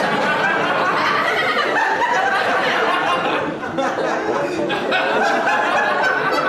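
Crowd laughter from a comedy laugh track, many voices laughing together at once.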